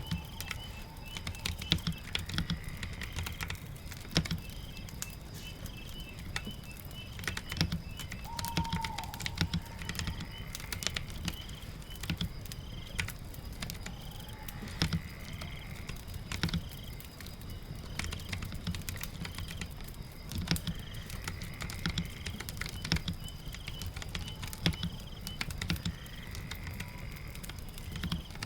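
Typing on a computer keyboard: irregular keystroke clicks over a steady low ambience bed of rain and fire. Faint short rising tones and chirps recur every few seconds in the background.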